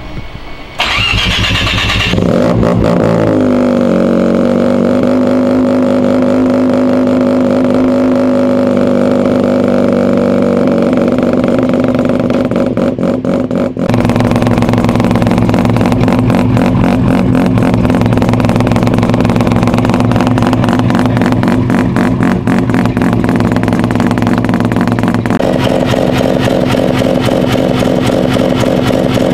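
Mazda RX-7 FD's twin-turbo 13B rotary engine starting up about a second in, its revs sliding down over the next couple of seconds, then idling steadily. The tone shifts around the middle and again near the end.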